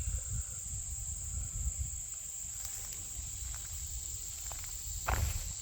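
Insects in the field trilling steadily in one unbroken high-pitched hum, over a low rumble. There is a short rustle about five seconds in.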